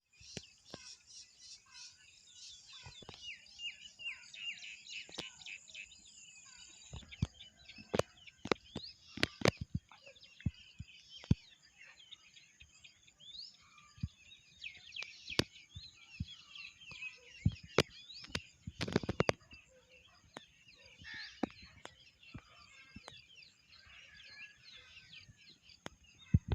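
Small birds chirping and twittering in quick, overlapping calls, with scattered sharp clicks and taps throughout and a louder, noisy burst about two-thirds of the way through.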